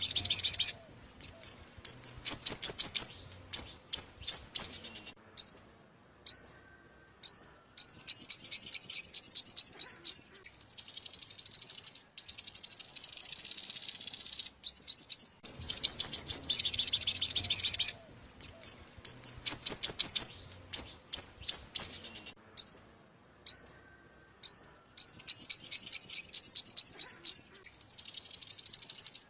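Sunbird song: rapid series of high-pitched chirps and buzzy trills, broken by short pauses. The same phrase sequence repeats about every fifteen seconds.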